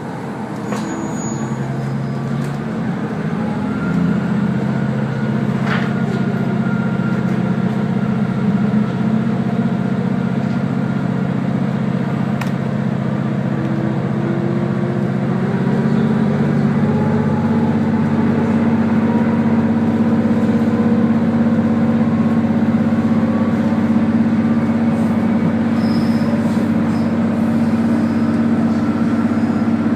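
Diesel railcar's engine and running gear heard from aboard as the train accelerates. The sound grows steadily louder, and the engine note steps up about four seconds in and again about sixteen seconds in.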